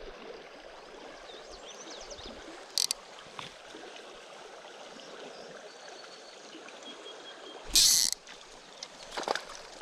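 River water flowing steadily over a riffle, with a brief sharp burst of noise near 3 s and a louder half-second burst about 8 s in.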